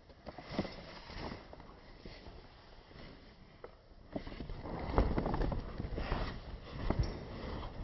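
A package being handled and opened: irregular knocks, clicks and rustling, getting busier and louder about four seconds in.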